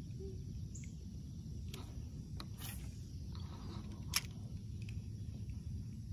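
Outdoor lake ambience heard from a kayak: a steady low rumble with a few light clicks, and one sharp click about four seconds in.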